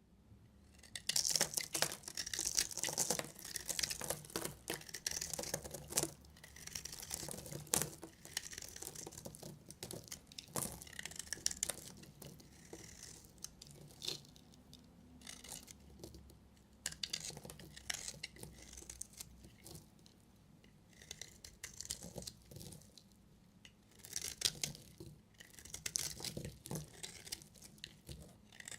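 A knife cutting through bars of dry soap, with crisp crackling and scraping strokes in uneven bursts and short pauses between them.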